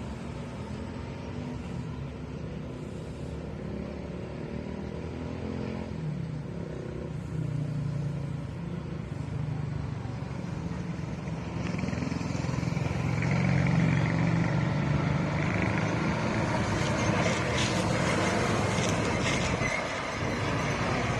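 Roadside traffic: passing vehicles with a steady low engine hum. It grows louder about halfway through as a heavier vehicle comes close and goes by, with tyre and road noise.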